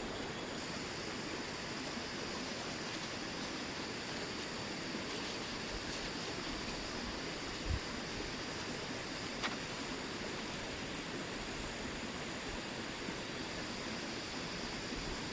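Steady outdoor rushing noise, like flowing water or wind, with one short low thump about halfway through and a faint click soon after.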